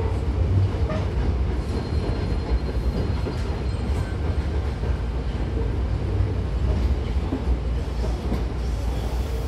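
Hankyu 1000 series electric commuter train running, heard inside the car by the doors: a steady low rumble of wheels on rail with a few faint clicks. A faint high squeal runs for a second or two about two seconds in.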